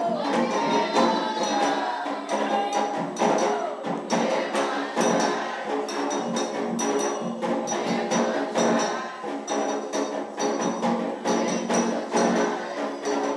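Candomblé ritual music: hand drums and metal percussion struck in a fast, steady rhythm under a group of voices singing.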